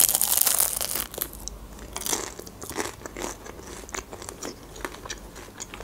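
A bite into a crisp McDonald's blackcurrant hand pie, with the loudest crunch of the crust right at the start. Close-miked chewing follows, with scattered small crunches and mouth clicks.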